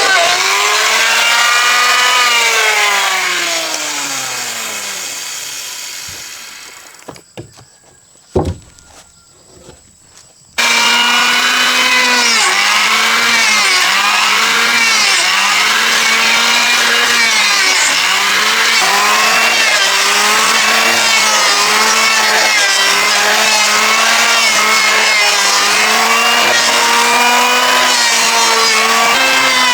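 Power saw motor cutting wood. It winds down and stops, then a few seconds later runs again at full speed, its pitch dipping and recovering over and over as the blade bites into the timber.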